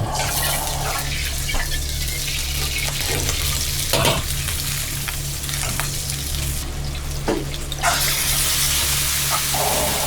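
Food sizzling in hot oil in a pan, a steady hiss that grows brighter near the end, with a few knocks of a utensil against the pan.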